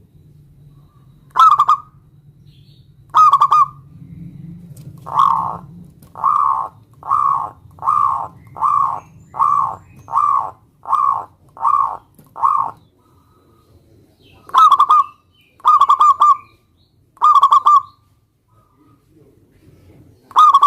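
Zebra dove (perkutut) cooing: a string of short, loud coos at one pitch, two spaced out at first, then a quick even run of about nine, then four more spaced out again.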